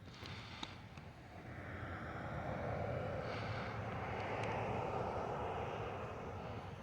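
A passing engine that builds up, is loudest a few seconds in, and fades away again, with a few faint clicks near the start.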